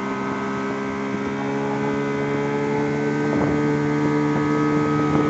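Evinrude (Johnson) 9.9 hp outboard motor running under way, its steady note rising slightly in pitch and getting louder as it picks up speed.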